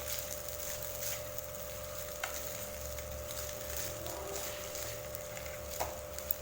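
A spatula stirring rice in a kadai, giving a few faint taps and scrapes over a steady background hum.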